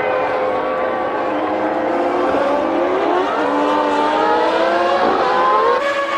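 Several 1996 Formula One car engines at high revs, one held at a steady pitch while others rise and fall and cross it as cars pass. The sound cuts off abruptly at the very end.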